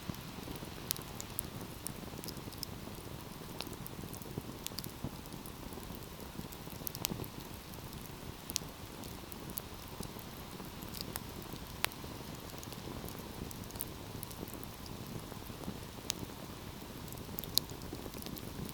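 Wood fire burning: a steady low rush of flame with scattered sharp crackles and pops, a few of them louder snaps.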